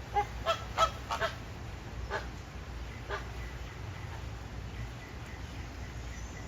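Flamingos honking: a quick run of short, goose-like calls in the first second and a half, then single calls about two and three seconds in.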